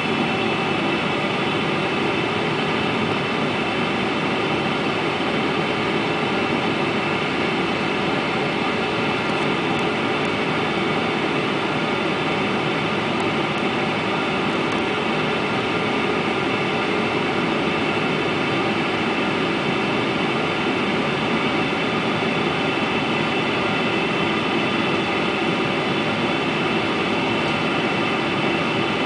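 Airplane cabin noise in flight: a steady rush of engines and airflow with a constant hum of several held tones, unchanging throughout.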